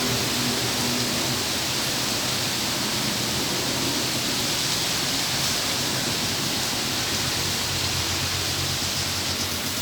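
Heavy rain pouring down, with gusting wind: a loud, steady rush of noise with no let-up.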